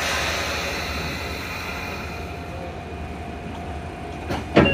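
Sotetsu commuter train heard from on board: a sudden hiss that fades over several seconds, over a steady low hum, then a sharp clunk near the end.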